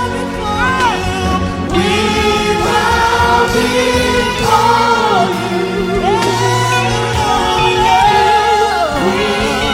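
Gospel worship song: a choir singing with melodic runs over a held keyboard and bass accompaniment.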